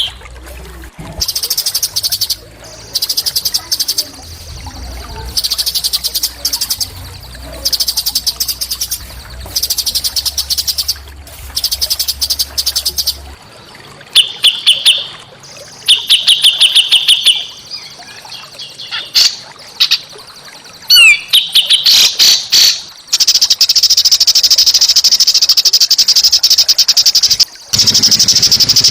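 Recorded song of a small songbird: rapid, buzzy, high trills about a second long, repeated every second or two, then a few sharp falling notes and a long unbroken trill near the end.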